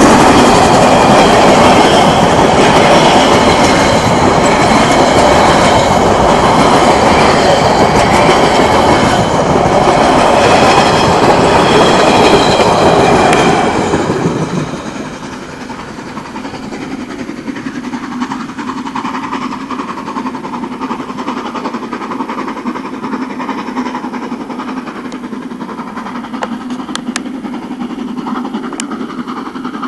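Metre-gauge passenger coaches of a steam train rolling past close by, wheels running over the rails with a loud, steady rattle. About halfway through the sound drops sharply as the last coach goes by and the train moves away, leaving it running faint in the distance.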